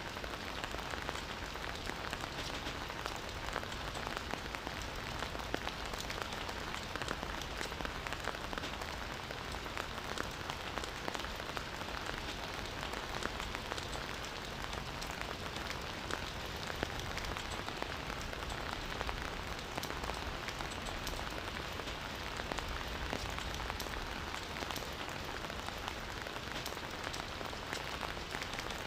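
Steady rain falling on foliage and ground, a dense even patter with many fine individual drop ticks.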